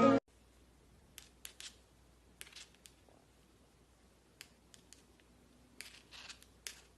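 Background music cuts off just after the start, then a quiet room with a dozen or so sharp, irregular clicks and snips in small clusters.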